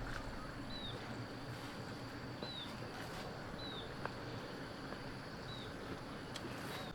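A bird repeating a short, high, down-slurred chirp six times at uneven intervals of one to two seconds, over a steady outdoor background hiss.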